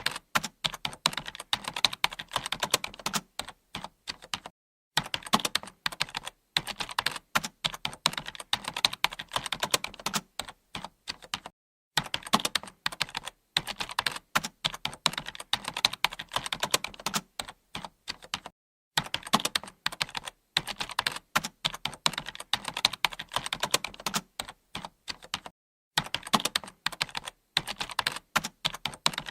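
Computer keyboard being typed on: rapid runs of key clicks, broken by short pauses about every seven seconds.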